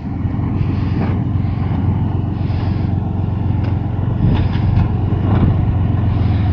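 Truck engine running steadily with a low rumble, growing slightly louder about four seconds in, with a few faint clicks over it.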